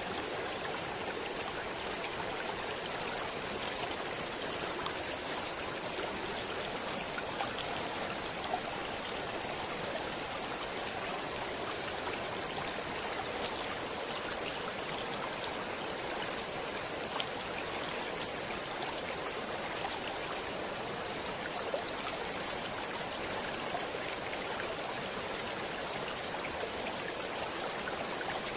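Stream water flowing and splashing over stones, a steady rushing with small bright splashes scattered through it.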